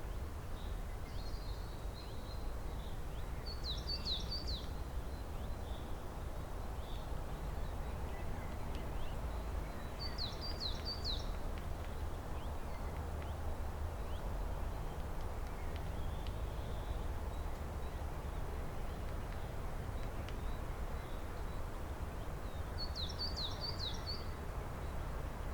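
A songbird singing three short phrases of quick, high, descending notes, several seconds apart, over a steady low background rumble.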